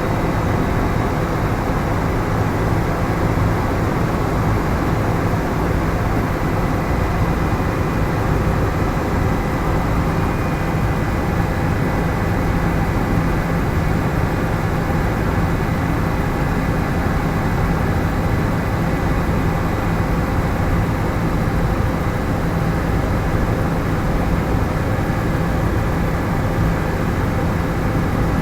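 Helicopter in flight: the steady, unbroken drone of its engine and rotor, heaviest in the low end.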